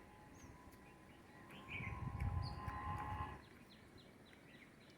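Small birds chirping in short high calls, with a quick run of repeated chirps near the end. A low rumble rises for about a second and a half in the middle.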